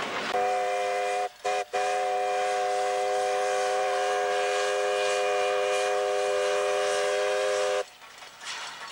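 Steam locomotive W901's whistle sounding a chord of several steady notes: a first blast, a brief toot, then one long blast of about six seconds that cuts off sharply.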